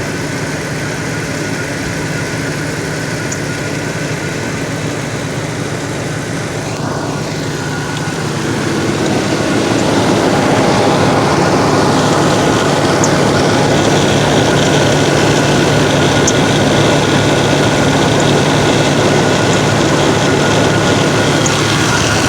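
Pickup truck engine running at idle, then picking up speed and running louder from about eight seconds in. It is the unasked-for revving up and down of a truck that also won't go over 30 mph and puts out black soot at the exhaust, which the owner has been told points to the catalytic converter.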